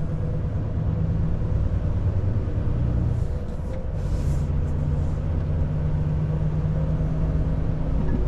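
Volvo FH truck's diesel engine running steadily while the truck is under way, a low drone that dips briefly about three seconds in and then picks up again. A few short hisses come around three to four seconds in.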